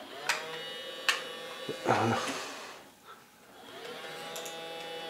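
Small motor of a child's vacuum cleaner whirring up and running with a buzz, with a few sharp clicks and a louder burst about two seconds in. It dies away, then whirs up again near the end; the motor does not catch every time it is switched on.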